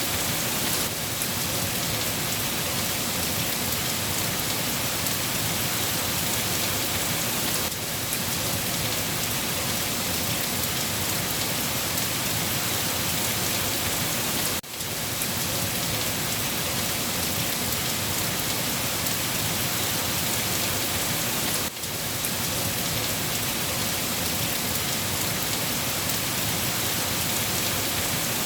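Steady heavy rain falling, a dense, even hiss with no thunder. The level dips briefly twice, in the middle and about two-thirds through.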